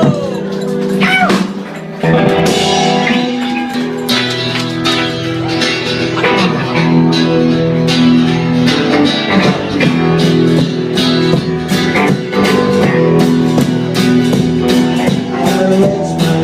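Live band playing an instrumental passage of a song: guitar over a steady drum beat.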